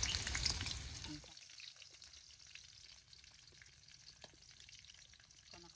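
Food frying and sizzling in a pan, with a few light clicks; loudest for about the first second, then a fainter sizzle.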